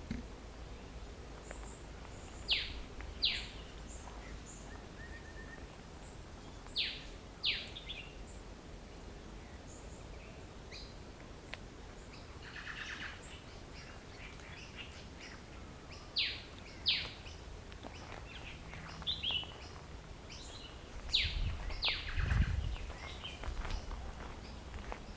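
Birds calling in the open: one bird gives pairs of sharp, downward-sweeping whistled notes, repeated four times, with softer chatter and chirps from other birds between them. A low rumble rises near the end.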